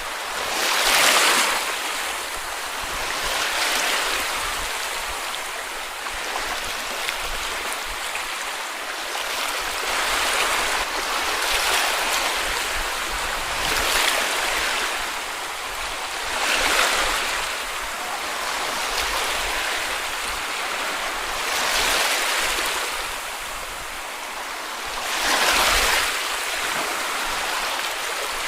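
Sea waves washing onto a beach: a steady wash of water with a louder hissing rush as each wave breaks, surging every two to six seconds.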